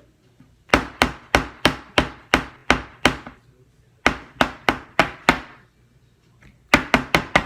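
Rapid sharp knocks on a hard surface, about three a second, in three runs: about nine strokes starting just under a second in, five more about four seconds in, and a quick four near the end.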